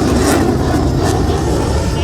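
F-16 fighter jet roaring loudly as it makes a fast pass.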